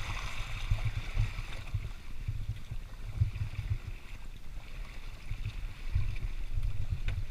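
Wind buffeting the microphone in uneven gusts over the hiss of water rushing along a yacht's hull.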